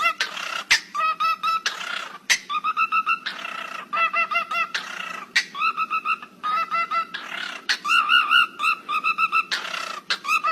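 A bird calling: fast runs of short pitched notes broken every second or so by harsh, noisy calls, over a steady low hum.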